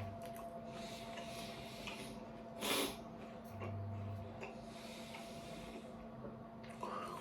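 A person chewing an apple, with small crunching clicks, over a steady electrical hum. One loud, short, noisy sound comes about three seconds in.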